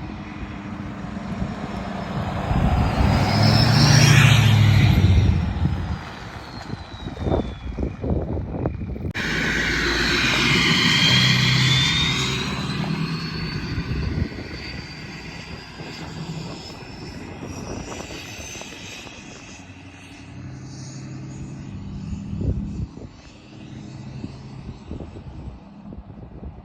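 A 2015 Ford F-250's 6.7 Powerstroke diesel with a Stage 1 KC Whistler turbo driving past twice. The turbo's high whistle slides in pitch over the diesel exhaust note, with the loudest passes about 4 and 11 seconds in and a fainter pass near the end.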